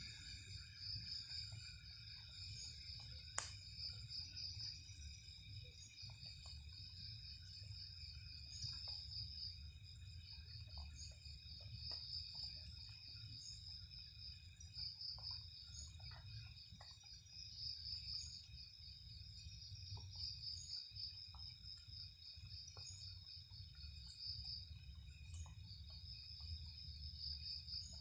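Night insects such as crickets chirping steadily in a fast pulsing high trill, over a low rumble, with scattered faint ticks and one sharp click about three and a half seconds in.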